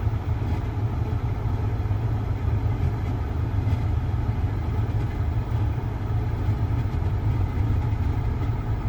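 Van's HVAC blower fan running on full power, a steady rumbling whoosh inside the cabin. The fan is going, but it pushes almost no air out through the vents.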